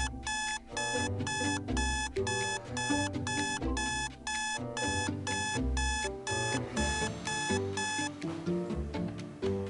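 Rapid electronic beeping, about two and a half beeps a second, like an alarm clock, over background music with a moving bass line. The beeping stops about eight seconds in while the music carries on.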